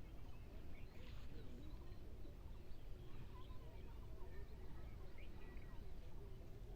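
Several birds chirping and calling in short rising and falling notes over a steady low rumble.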